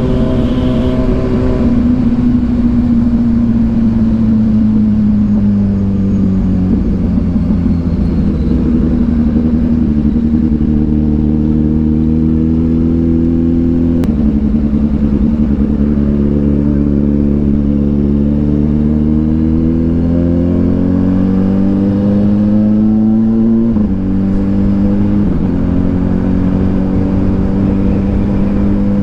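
Kawasaki Ninja 1000SX's inline-four engine through an aftermarket AR exhaust while riding. The engine note falls as the bike slows over the first several seconds and holds low for a while. It then climbs steadily through the revs and drops twice in quick succession near the end as the rider shifts up.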